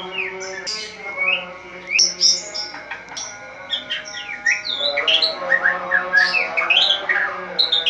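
White-rumped shama (murai batu) singing a loud, continuous song of quick, varied whistles and chattering notes.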